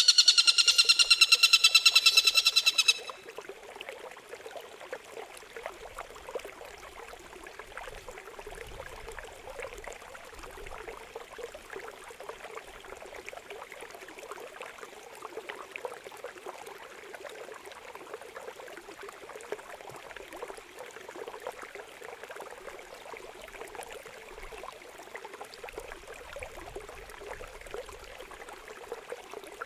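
A songbird's harsh, rapidly pulsed buzzing call for about the first three seconds, cut off suddenly. Then a steady trickle of running water, the water-therapy pause of a bird-training track.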